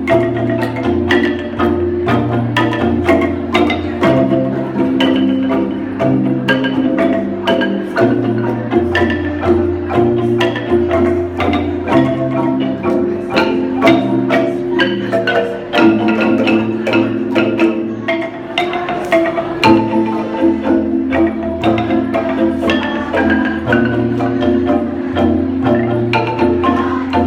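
Kolintang ensemble playing: wooden bars struck with mallets in quick repeated strokes, with a bass line whose note changes every second or two.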